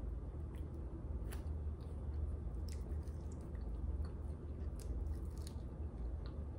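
Close-up eating sounds of sauced chicken wings: chewing and scattered short, wet mouth clicks, over a steady low hum.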